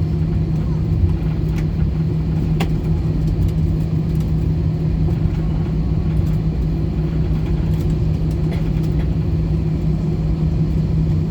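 Steady low cabin hum inside an Airbus A320 on the ground before takeoff, from the engines at idle and the air conditioning, with one strong low drone and a few faint ticks.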